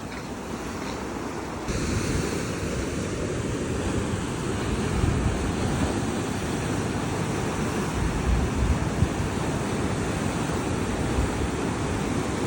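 Sea surf washing onto a beach, with wind rumbling on the microphone; it gets suddenly louder a little under two seconds in.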